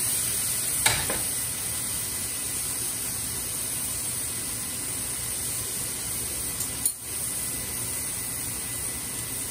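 Smashed beef patties sizzling steadily on a cast iron griddle, with a sharp metal clack about a second in as the steel spatula is set down on the stove grate.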